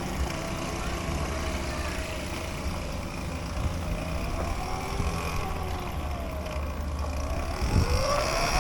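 Whine of a small electric motor over a low rumble, its pitch wandering slowly up and down, then rising steeply and getting louder near the end.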